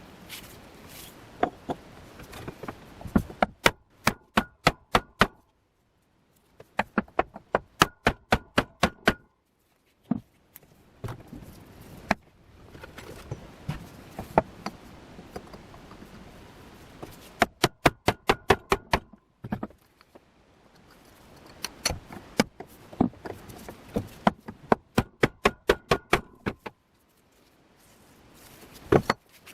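Hammer blows in quick runs of about eight, roughly four or five a second, each with a short metallic ring. Scattered single knocks fall between the runs.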